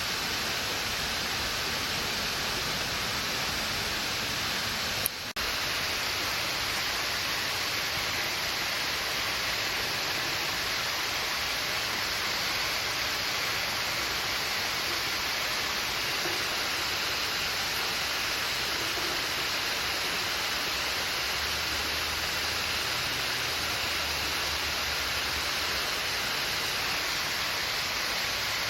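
Steady rushing of a stream's flowing water, an even hiss with no pauses. A brief click with a short drop in level about five seconds in.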